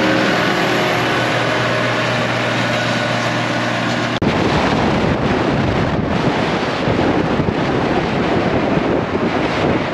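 Semi truck's diesel engine running steadily. About four seconds in, the sound cuts abruptly to a loud, noisy rush of engine and wind as the truck drives along.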